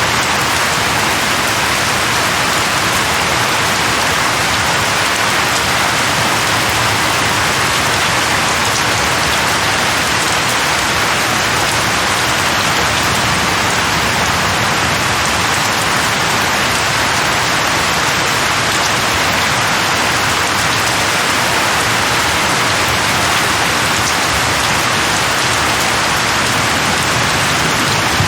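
Steady, heavy rain falling on a surface, an even hiss of drops.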